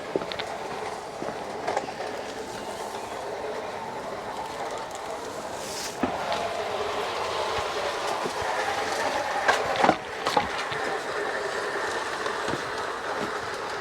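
G-scale garden railway model train running steadily along its outdoor track, its wheels and motor making a continuous rolling sound with scattered clicks, the loudest about ten seconds in.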